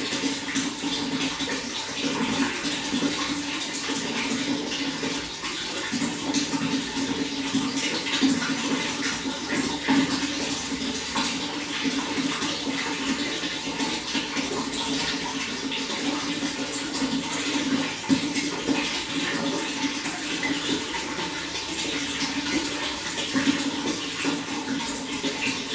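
Running water flowing continuously: a steady low rush with constant small splashes and gurgles over it.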